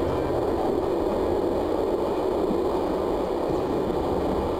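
Steady rumble and hiss of a passenger train running along the line, heard from inside the coach.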